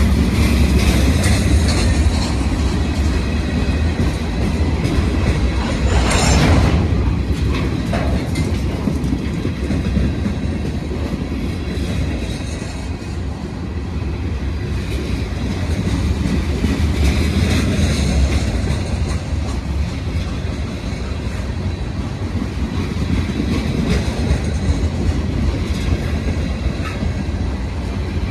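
Passenger train riding noise heard from on board: a steady low rumble of wheels on rail with clickety-clack over the joints, and a brief louder rushing burst about six seconds in.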